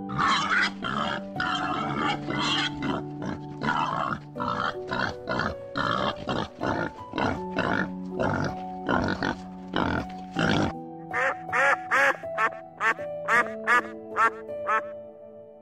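Pigs grunting over and over, then, after a sudden change about two-thirds of the way through, ducks quacking in quick runs. Steady background music plays underneath throughout.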